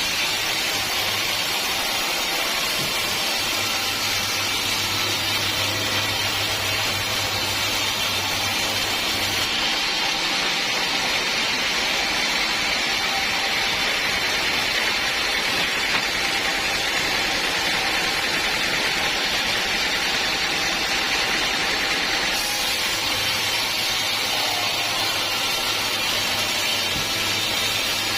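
Sawmill saw running with a steady rushing, noisy sound and a low hum underneath. About ten seconds in the hum drops out and the noise brightens, until it changes back near the end.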